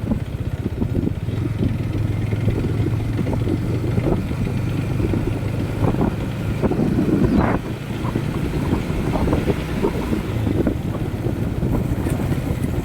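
Motorcycle engine running steadily while riding, a constant low hum under rough wind noise buffeting the microphone.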